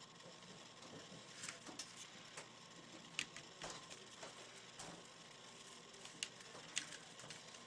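Faint, irregular small clicks and scrapes of a screwdriver turning a small screw into a UA-937 Magnum airsoft revolver.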